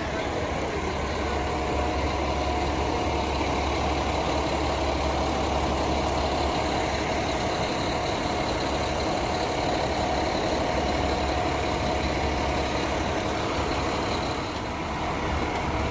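Heavy truck engine idling steadily, with a low hum and a faint steady whine over it.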